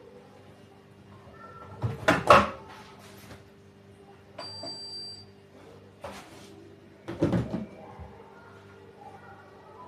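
Two loud clattering knocks about five seconds apart, with a smaller knock between them, like a door or lid being closed, over soft background music.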